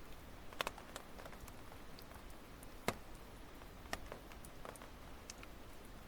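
Wood fire burning and crackling, with scattered sharp pops from the burning firewood over a faint steady hiss. The loudest pop comes about halfway through.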